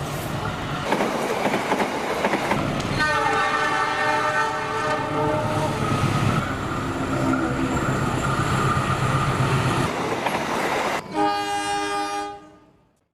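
Passenger train running past with a steady rumble and wheel clatter. Its locomotive horn sounds about three seconds in and holds for about three seconds, then gives a second short blast near the end before the sound fades out quickly.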